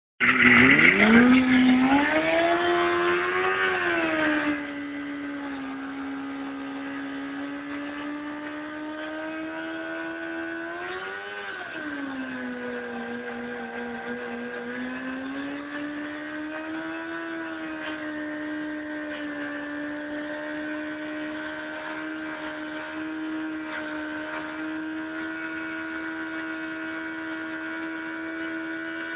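2004 Yamaha R6's 600 cc inline-four engine held at high revs in a stationary burnout, the rear tyre spinning on the pavement. The revs climb steeply at the start and it is loudest for the first four seconds or so, then drops a little and holds a steady high note. The revs swell briefly about eleven seconds in and again, more gently, around seventeen seconds.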